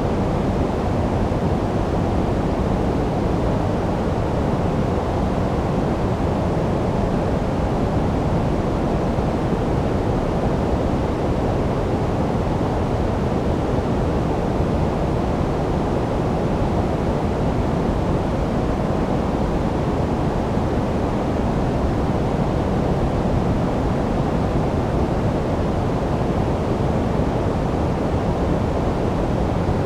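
Steady artificial noise for sleep, billed as white noise but deep rather than hissy, most of its weight in the low end with little treble; an even, unchanging rush.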